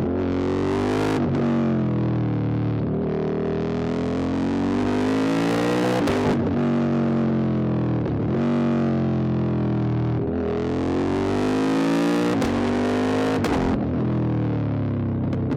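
QJ Motor SVT650X's 650 cc V-twin running through an Arrow Racetech exhaust under hard riding: the engine note climbs with the revs and is cut short by quick gear changes about seven times, with stretches where the revs fall off between pulls. The brief breaks fit clutchless upshifts with the quickshifter.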